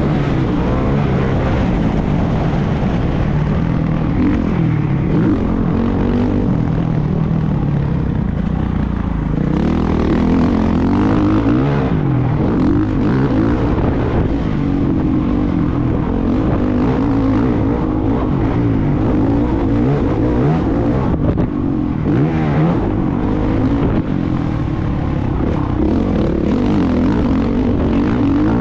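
Motocross bike engine running hard and revving up and down over and over as it is ridden, its pitch rising and falling every second or two.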